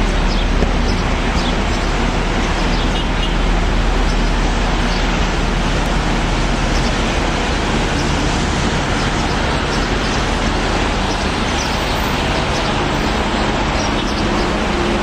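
Steady traffic noise: car engines running, with a constant low engine hum throughout.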